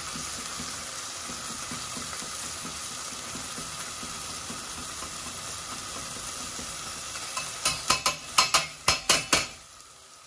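Tomato, carrot and onion sizzling steadily in a stainless pot while something is grated over it on a metal rasp grater. Near the end comes a quick run of about eight sharp metal clicks and taps as the grater is knocked and wiped clean over the pot, and then the sizzle turns quieter.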